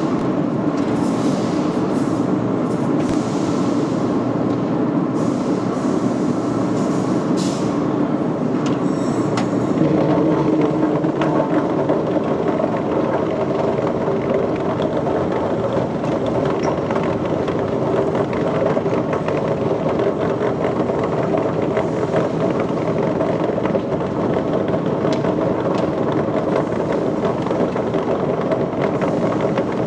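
Heavy machinery running steadily with a dense, continuous rattling noise that shifts slightly higher and louder about ten seconds in.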